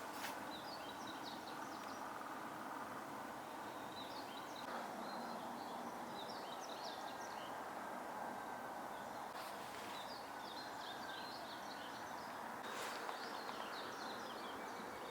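Small birds twittering in repeated bursts of quick high chirps over a steady background hiss.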